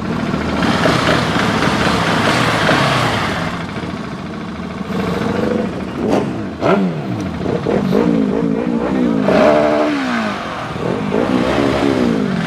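Motorcycle engines run at low speed, their pitch rising and falling several times as the throttle is opened and closed.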